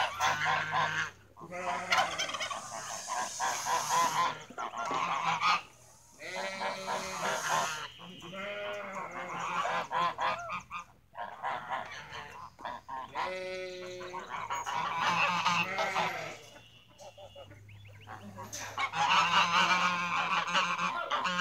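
Birds calling over and over, many short calls overlapping. There is a quieter lull about three-quarters of the way through, and the calls are loudest near the end.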